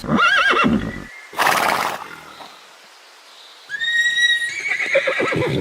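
Horse whinnying twice: a quavering call in the first second, a short breathy burst, then after a pause a second whinny that starts high and steady and breaks into a lower fluttering near the end.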